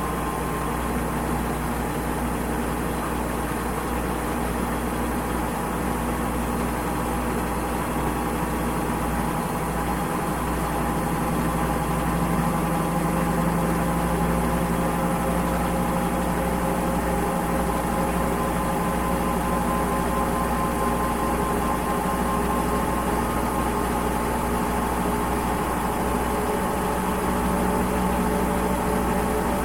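Washing machine running: a steady motor hum with several tones that drift slowly in pitch, growing a little louder about twelve seconds in.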